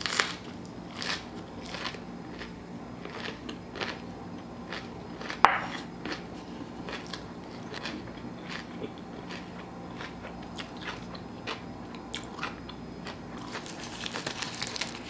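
Close-miked chewing of a crunchy mouthful, with soft crunching clicks and wet mouth sounds at an uneven pace and one louder crunch about halfway. Near the end, a quick run of crackling as a sheet of dry roasted seaweed (nori) is handled.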